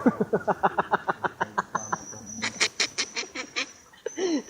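A person laughing in a rapid cackle of short 'ha' bursts, about seven a second, for about three and a half seconds, the later bursts breathier and sharper.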